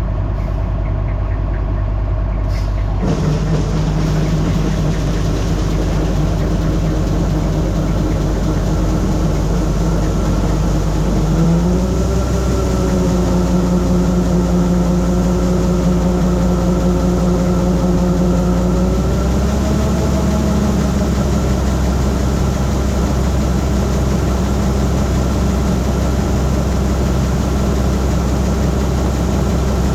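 Diesel engine of a Massey Ferguson 9690 combine running steadily. Its pitch rises as the engine speeds up, about 12 seconds in and again about 19 seconds in.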